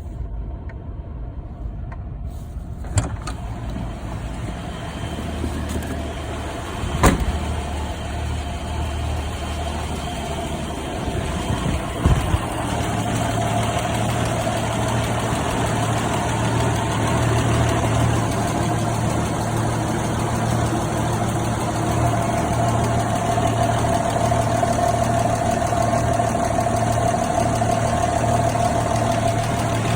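1987 Toyota Land Cruiser FJ60's carbureted 4.2 L 2F inline-six idling on the choke just after a cold start in freezing weather. About twelve seconds in, the engine speed steps up and the idle grows a little louder. A few sharp clicks are heard, the loudest about seven seconds in.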